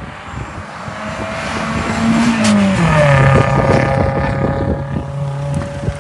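A car engine accelerating hard down the road, its pitch climbing and then dropping sharply about three seconds in before holding a lower steady note, loudest around the middle.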